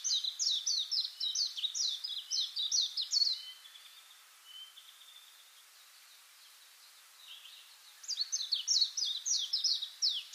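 A songbird singing long runs of quick, sharp chirps, about four a second. It breaks off after about three and a half seconds and starts again near the end.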